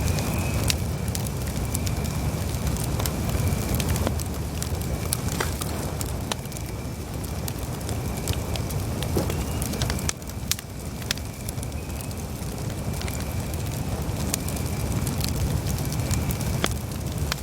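Wood campfire burning, with a steady low rush of flames and frequent sharp crackles and pops of the burning wood. A faint, thin, high whistle runs underneath.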